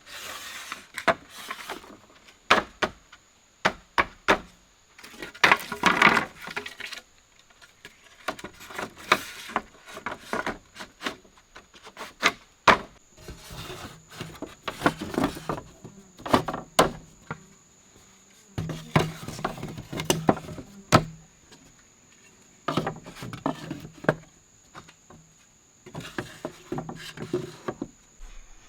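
Wood being handled and worked by hand: irregular sharp knocks and clicks with short stretches of scraping and rubbing in between.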